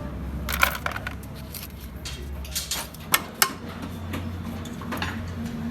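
Metal clinks and knocks of hand tools and engine parts being handled, with two sharp strikes a little past three seconds in, over a low steady hum.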